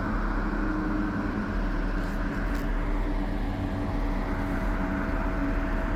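Steady mechanical hum and rumble with a faint held tone, unchanging throughout.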